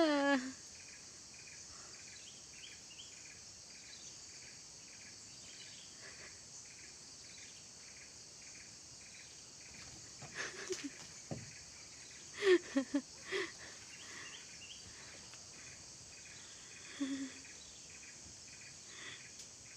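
Steady high-pitched chorus of insects, with a run of short, evenly spaced chirps over the first several seconds. A few brief, louder sounds break in around the middle and once more later.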